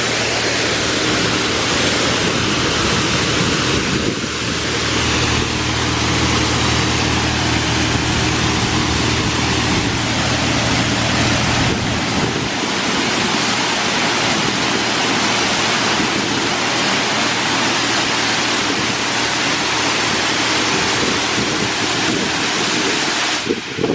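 Oasis Monsoon in-bay automatic car wash spraying water over the car in a steady, loud rush. A low machine hum runs under the spray and stops about halfway through.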